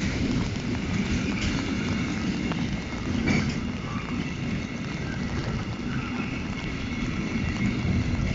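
Container freight train wagons rolling past: a steady rumble of steel wheels on rail, with scattered clicks and clacks and one louder clack about three seconds in.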